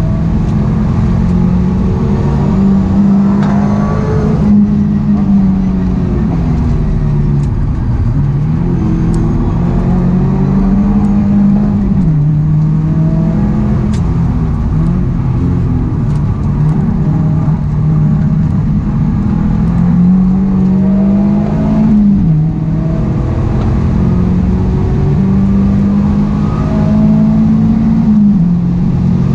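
Mazda MX-5 NC's stock four-cylinder engine heard from inside the cabin under hard track driving: the engine note climbs as the car accelerates and drops at each gear change, several times, over steady road and wind noise.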